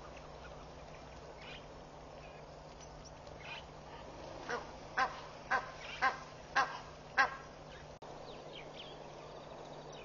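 A bird giving a run of six short, sharp calls, about two a second, over a steady low background noise.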